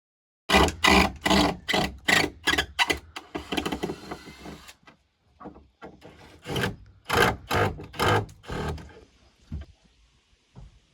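Hand saw cutting wood in quick back-and-forth strokes, about three a second, in two runs with a quieter pause of a couple of seconds between them.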